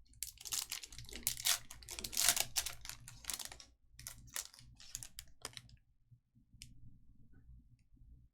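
Trading cards being handled and shuffled by hand: a quick run of clicks and crinkles lasting about three and a half seconds, then a few separate clicks.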